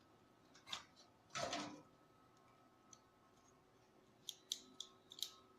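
Small clicks and handling noise from computer hardware being worked on: a single click, then a short scrape about a second and a half in, and a quick cluster of sharp clicks near the end.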